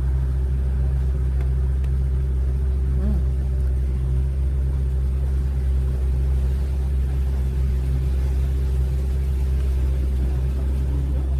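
Tour boat's engine running steadily: a constant low rumble with a steady hum.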